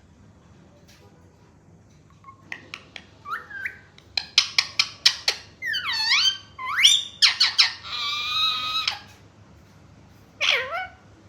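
Pet parrot calling: a few clicks, then a run of sharp squawks and whistles that sweep up and down in pitch, with a harsher rasping call in the middle and one last squawk near the end.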